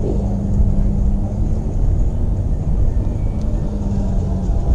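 Low rumble with a steady motor hum from the fishing boat, heard in two stretches: for the first second and a half or so, and again for about a second near the end.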